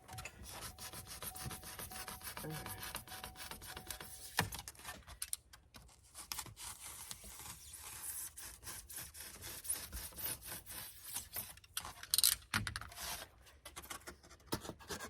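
Rapid, scratchy rubbing and scraping, with a couple of louder knocks, one about four seconds in and one near twelve seconds.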